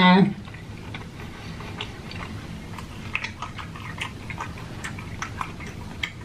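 Close-miked chewing of a mouthful of spicy seafood boil: irregular wet mouth smacks and small clicks.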